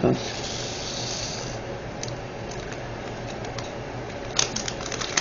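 Small plastic items and packaging being handled on a table: a knock, a rustle lasting about a second and a half, then scattered light clicks and taps, with a quick run of clicks near the end.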